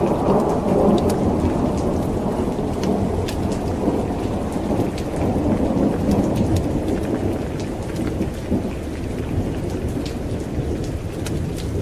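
Steady rain with a long rolling rumble of thunder, loudest at the start and slowly easing off, and scattered sharp ticks throughout.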